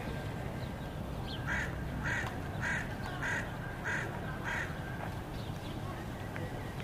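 A bird giving six short, harsh calls in an even series, just under two a second, over a steady low background rumble.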